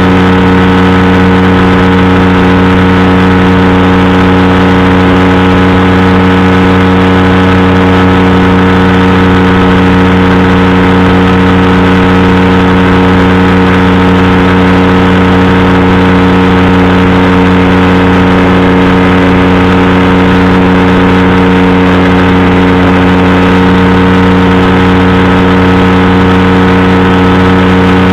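Powered parachute engine and propeller running loud and steady, the pitch holding constant with no change in throttle.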